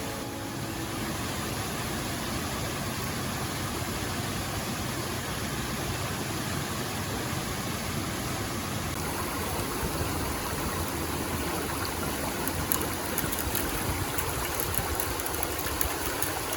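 Steady rush of stream water and a waterfall, with light crackling splashes toward the end.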